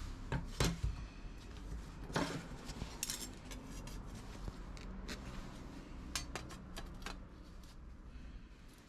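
Thin sheet-metal parts clinking and knocking against each other as they are handled: a few louder knocks near the start, then lighter scattered clinks.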